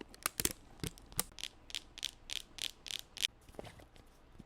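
Plastic slime container being opened by hand: a few sharp plastic clicks, then a run of crisp, ratchet-like clicks about three a second.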